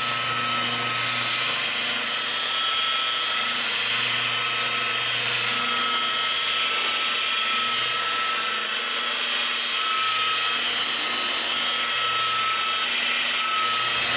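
An electric power tool running steadily: a continuous motor whine over a hiss, with a low hum that swells and fades.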